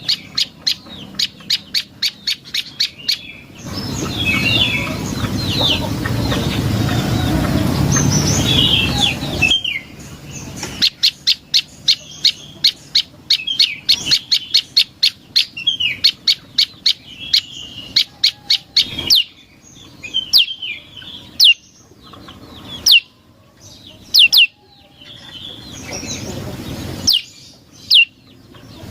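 Prenjak lumut songbird calling: fast runs of sharp, high chirps, about five a second, broken later into spaced single sharp notes. A few seconds in, a loud rushing noise lasting about six seconds runs under the calls.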